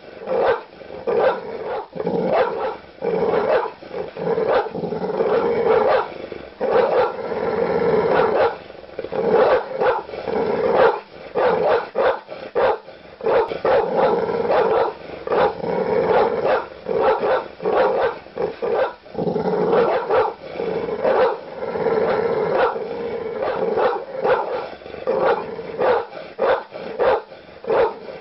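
Large dog barking aggressively: deep barks in a rapid, unbroken run, one after another with only brief gaps.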